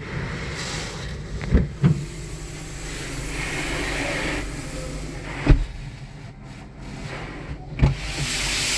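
Steady hissing water spray from a car-wash rinse, with a low hum under it and four short thumps: two about one and a half seconds in, one near the middle and one near the end.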